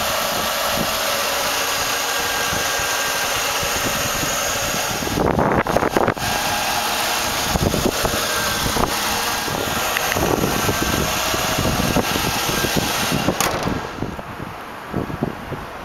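Ford 4.6-litre V8 of a 2000 Lincoln Town Car limousine idling steadily, heard close up over the open engine bay. A brief louder rush of noise comes about five seconds in, and the sound drops away near the end.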